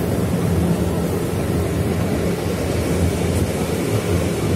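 Steady low rumble of a MEDHA three-phase electric multiple unit running at speed, heard from inside the coach, with wind noise at the window.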